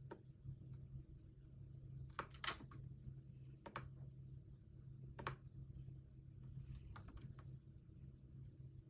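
A few scattered computer keyboard keystrokes, some singly and some in short runs, over a steady low hum.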